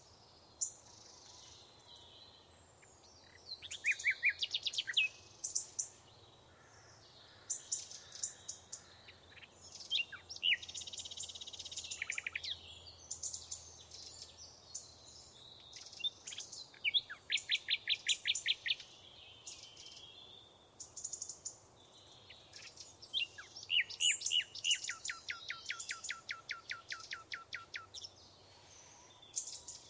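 Songbirds singing: repeated high chirps and phrases, with fast rattling trills of even, rapid notes, the longest about two thirds of the way through.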